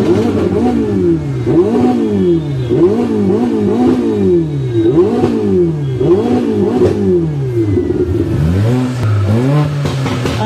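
Ferrari V8 engine being revved in quick blips, about once a second, each rise falling straight back, with lower, gentler revs near the end.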